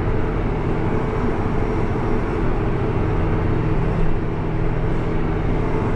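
Tractor engine running steadily under load, heard from inside the cab.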